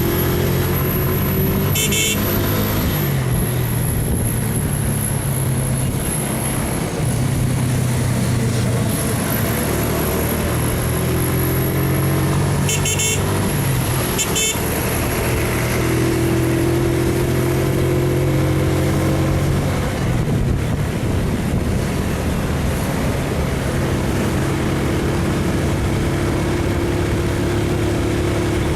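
Motorcycle engine running steadily while riding, its pitch stepping up and down with throttle and gear changes. Short horn beeps sound about two seconds in and again a few times around thirteen to fourteen seconds in.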